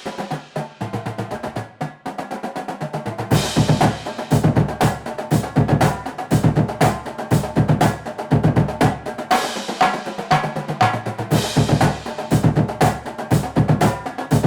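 Background music built on a fast, busy drum beat, which grows fuller with heavier low drums about three and a half seconds in.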